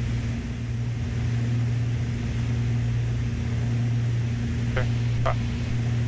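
Steady low drone of a Beechcraft Baron B55's two piston engines heard in the cockpit on final approach with the gear down. Two short rising chirps come about five seconds in.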